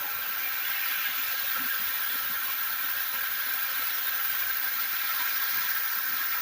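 Steady rushing hiss that stays even throughout.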